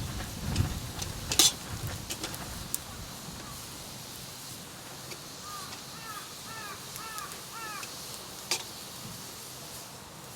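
A bird calling a quick run of about six short, arched notes in the middle, over a few sharp snaps and crackles.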